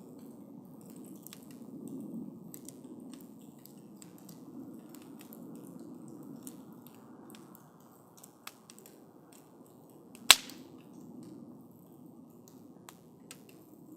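Wood campfire burning: a low steady rush of flames with many small scattered crackles, and one loud sharp pop about ten seconds in.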